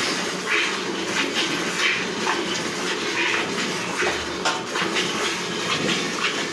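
Milk squirting into a metal pail as a cow is milked by hand, in rhythmic strokes about twice a second.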